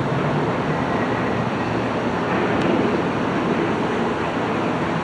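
Steady rushing background noise, even and unchanging throughout.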